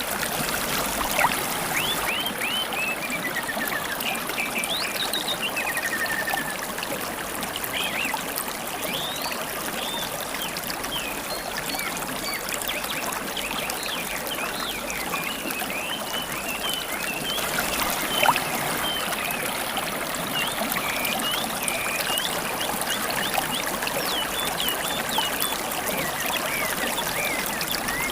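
River water trickling and babbling steadily, with wild songbirds chirping over it throughout, including a quick falling trill about three seconds in. Two brief sharp clicks stand out, about a second in and past the middle.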